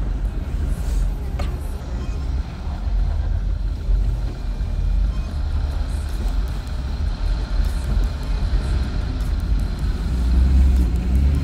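Jeep engine running steadily at low speed while crawling along an off-road trail, a continuous low rumble that swells slightly near the end.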